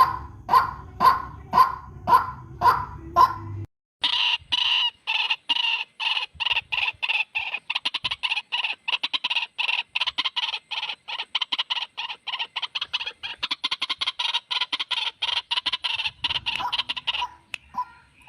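White-breasted waterhen (ruak-ruak) calls from a lure recording. First there are repeated calls about two a second over a low hum. After a cut at about 4 s comes a fast, chattering run of calls, about five a second, broken briefly near the end.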